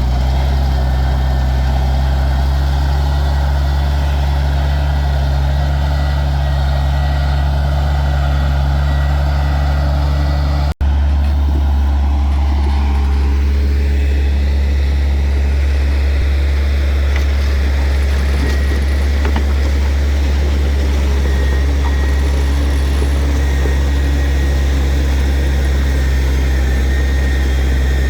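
Heavy diesel earthmoving machinery running steadily with a deep engine drone. The sound cuts out for an instant about eleven seconds in, then carries on with a slightly different tone.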